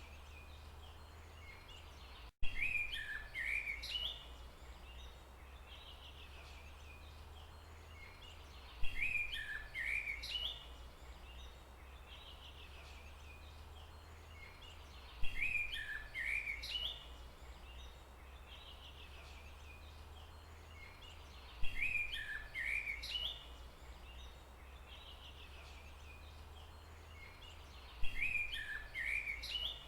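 Forest ambience: a bird calls in a short burst of chirps that repeats identically about every six and a half seconds, five times, over a steady low hum. The identical repeats show a looped recording.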